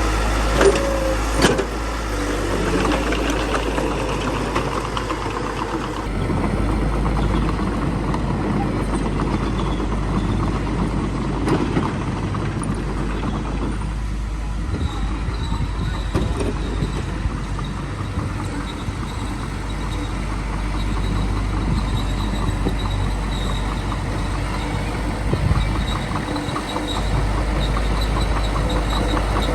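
Small bulldozer's diesel engine running steadily at work, its pitch shifting as the load changes, with a few sharp metallic clanks near the start.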